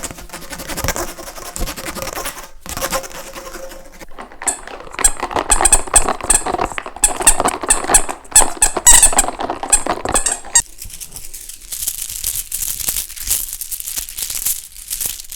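Close-miked ASMR trigger sounds that change every few seconds. A fast run of short squeaks fills the middle, followed by a steady high hissing scratch.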